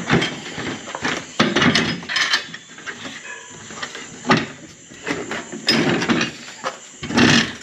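Irregular knocks, bumps and scrapes of things being handled and set down, loudest about a second and a half in, about four and a quarter seconds in, and near the end.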